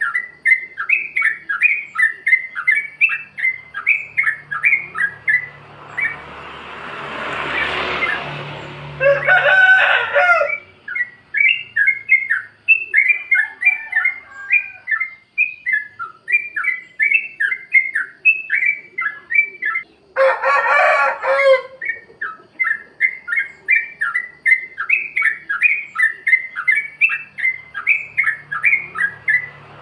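Yellow-vented bulbul singing a rapid, bubbly run of chattering notes, about three a second, in the free-style 'plik plok' song. Twice the run is broken by a louder, harsher call lasting about a second and a half.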